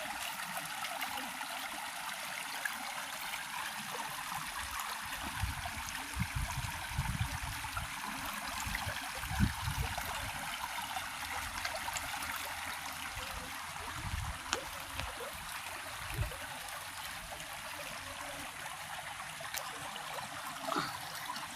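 Steady rush of flowing stream water, with a few low thumps through the middle.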